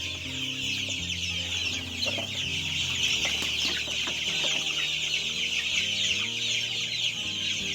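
A flock of young chicks peeping without a break, a dense chorus of many overlapping high, short cheeps.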